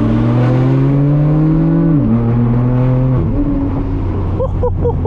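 Straight-piped BMW M4 F82's twin-turbo inline-six pulling under load. Its note climbs slowly for about two seconds, drops sharply, holds steady, then drops again about three seconds in. A few short, wavering higher-pitched sounds come near the end.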